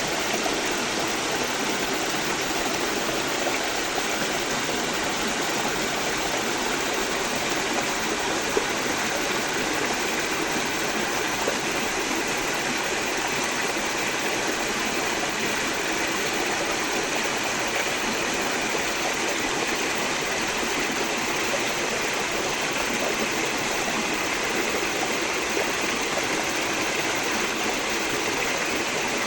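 Forest stream flowing steadily, an even, unbroken rush of water.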